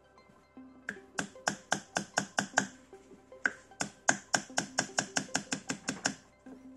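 Two quick runs of sharp taps, about four or five a second, as the copper coils are tapped down into the slots of a three-phase motor stator during rewinding.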